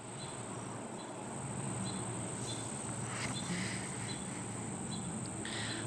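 Quiet room tone with a steady low hum, faint high ticking and a few soft rustles as a plush toy's tag is handled.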